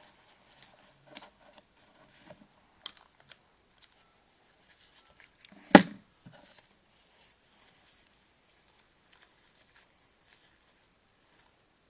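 Hands working paper craft materials: scattered light rustles and taps, with one loud sharp click about six seconds in.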